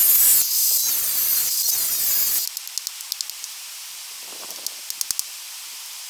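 Angle grinder's disc grinding stone in three short passes, a loud high hiss that stops abruptly about two and a half seconds in; faint light clicks follow.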